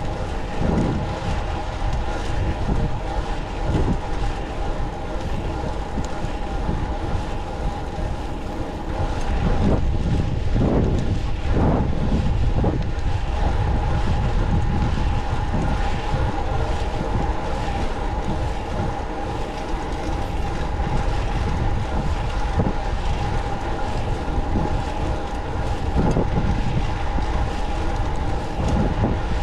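Rolling noise from riding a fixed-gear track bicycle: a steady low rumble with a constant high whine, and wind hitting the microphone in gusts.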